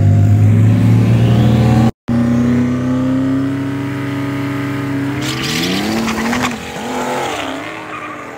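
Cars launching in a street race: engines held at high revs on the line, then pulling away with slowly rising pitch. A loud hissing rush comes about five seconds in, and the engines then fade as the cars drive off.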